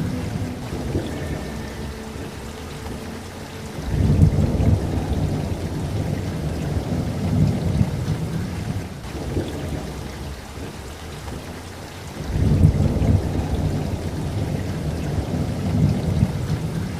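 Steady rain with rolling thunder: a long low rumble swells about four seconds in and another about twelve seconds in.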